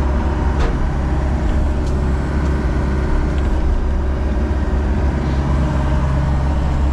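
John Deere 60G compact excavator's diesel engine running steadily with a low drone. A single sharp click comes about half a second in.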